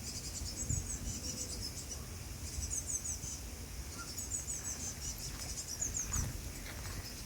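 Fledgling blue tits calling from a tree in quick, very high-pitched chirping runs that repeat again and again. A low rumble sits underneath.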